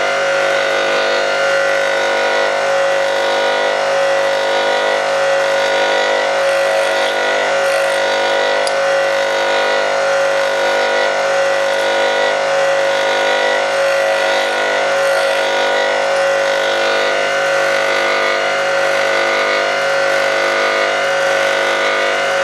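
Bench grindstone running at a steady pitch, its motor giving a constant whine.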